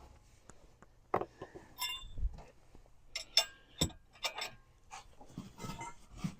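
Faint, irregular light metallic clinks and taps of a socket and wrench being worked on a truck's brake caliper bracket bolts.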